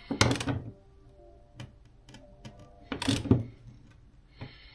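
Steel wrenches clicking and clattering on the nut at the top of a motorcycle fork as it is tightened down, in two short bursts about three seconds apart.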